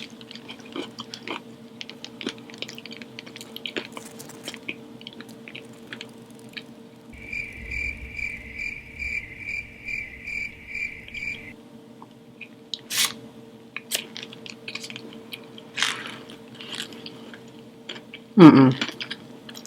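Chewing a crispy fried chicken sandwich: soft crunches and mouth sounds over a steady low hum. Partway through, a high electronic beeping pulses about twice a second for roughly four seconds, and a short voiced murmur comes near the end.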